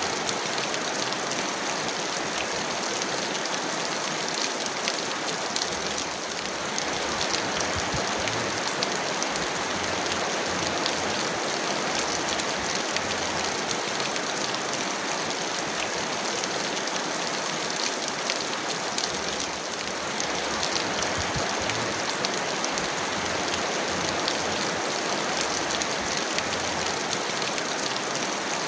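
Heavy rain falling steadily: a dense, even hiss scattered with the ticks of individual drops.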